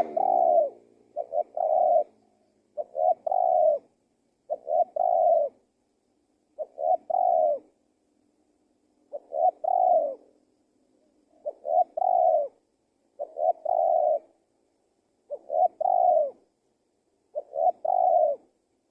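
Male spotted dove (tekukur) cooing, a short phrase of two or three coos repeated about every two seconds.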